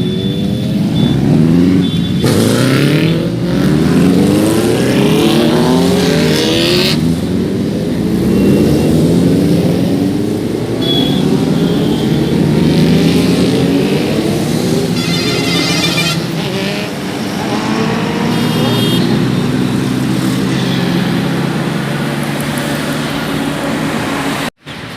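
Sport motorcycle engine accelerating hard through the gears: the revs climb, drop at each upshift and climb again, several times over. The sound cuts out abruptly for a moment near the end.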